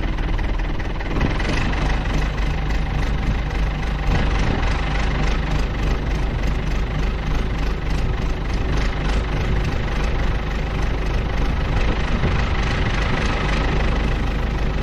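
Ford tractor engine running steadily with an even, regular beat.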